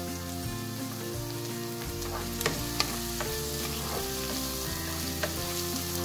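Chopped onion, tomato, garlic and ginger sizzling as they fry in oil in a non-stick pan while being stirred with a spoon, with a steady crackle and a couple of sharp clicks of the spoon against the pan about two and a half seconds in.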